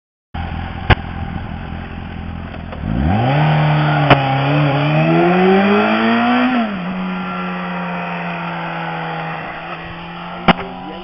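A motor vehicle's engine approaches under acceleration, its pitch rising. About two-thirds of the way in the pitch drops sharply as it passes by, and it settles to a steady lower drone. A few sharp clicks occur near the start, the middle and the end.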